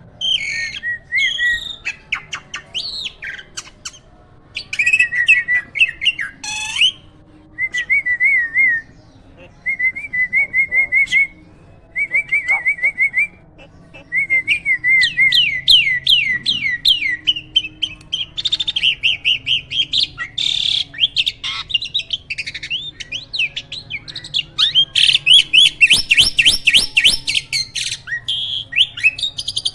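Hybrid jalak starling singing. Short wavering trilled phrases come with pauses between them, then it moves into fast runs of rising notes and dense, busy chatter through the second half.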